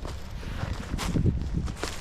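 Footsteps of a person walking along a park path, a few steps in a row.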